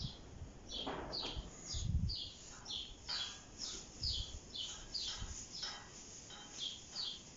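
A small bird chirping over and over, short high notes that each fall in pitch, about two a second, with a few soft low thumps underneath.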